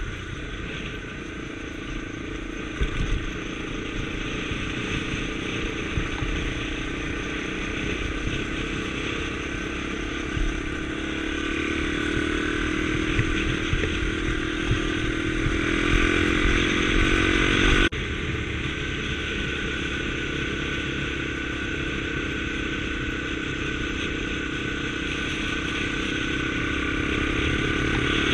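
Motorcycle engine of a Honda Tornado scrambler running under way. Its pitch climbs steadily, drops suddenly about two-thirds of the way in, holds steady, then climbs again near the end.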